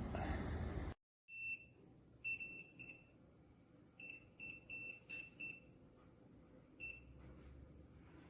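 A series of short, quiet electronic beeps at one high pitch, coming in irregular clusters of one to five. A steady background hiss cuts off abruptly about a second in.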